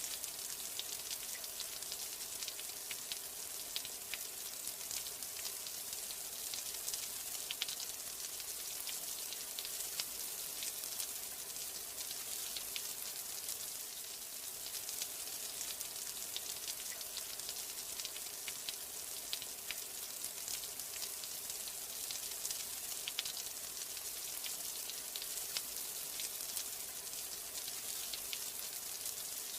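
Steady rain falling: an even, hissing wash with many separate drops ticking close by throughout.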